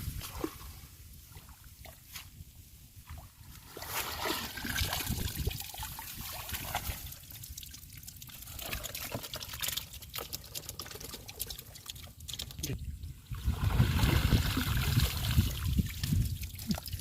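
Shallow water trickling and splashing, with small irregular clicks and knocks; the splashing grows louder for the last few seconds.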